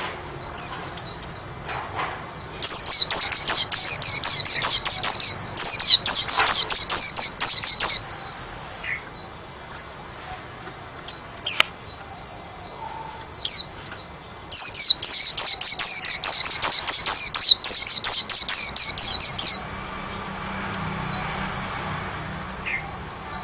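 White-eye (pleci) singing: rapid runs of high, sharp, downward-sliding notes, about eight a second, in three loud bursts of a few seconds each, with softer twittering between them.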